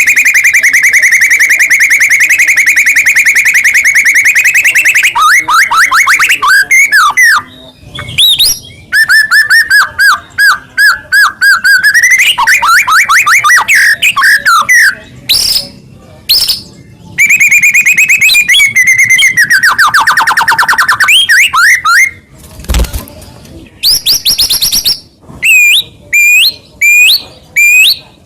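White-rumped shama (murai batu) singing loudly and continuously. The song alternates long, rapid, buzzy trills held for several seconds with quick rising and falling whistled phrases, and ends in a string of short upswept notes.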